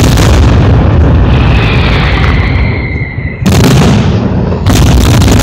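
Fireworks going off in a dense barrage of bangs and crackling, with a high whistling tone for about two seconds in the middle. After a short lull, loud new volleys of bursts break in suddenly twice in the second half.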